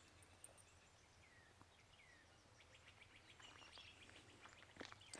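Faint birdsong: small birds giving short chirps, with a quick run of high chirps past the middle, over a low background hum.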